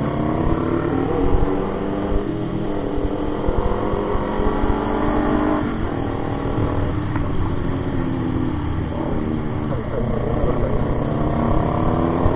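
Motorcycle engine running under way, its pitch climbing through the revs and dropping back several times as it accelerates and shifts up, with a low rumble of wind noise beneath.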